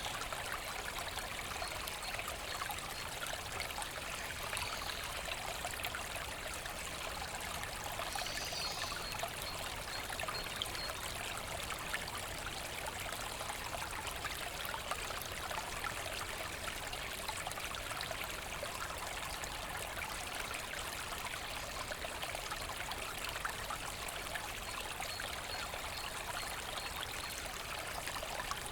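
A forest brook running and trickling steadily, an even, unbroken rush of water.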